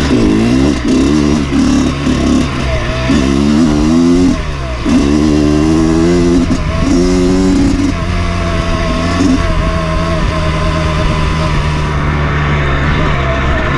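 Dirt bike engine being ridden. It revs up and down several times in quick succession in the first half, climbing in pitch with each pull, then runs at a steadier pitch to the end.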